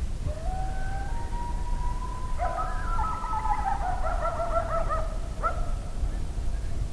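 A pack of coyotes howling in chorus. A single rising howl comes first, then about two and a half seconds in several overlapping wavering howls and yips join, trailing off into one faint howl. A steady low rumble lies underneath.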